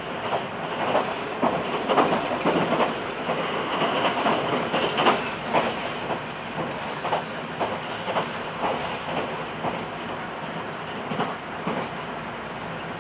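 Passenger train running, its wheels clattering over the track in a run of irregular clacks over a steady rumble, heard from inside the carriage. The clatter thins out in the last few seconds.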